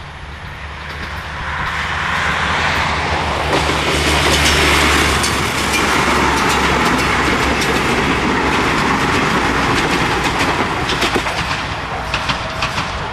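Diesel train with the Apolo 2400-series railcar sets passing close at speed: a low engine rumble and rushing wheel-on-rail noise build to a peak about four seconds in. Later a run of sharp wheel clicks follows as the last cars go by, and the sound fades near the end.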